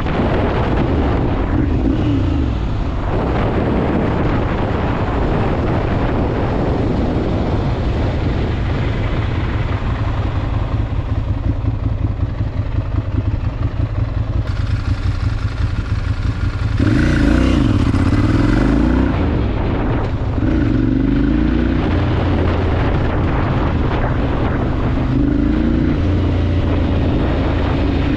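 Ducati Monster 796's air-cooled L-twin engine running under a city ride, with wind noise on the microphone. In the second half the revs rise and fall several times as the bike accelerates and shifts.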